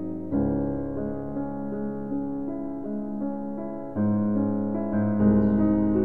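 Background piano music: slow, held chords, with new ones struck just after the start, about four seconds in and again about a second later.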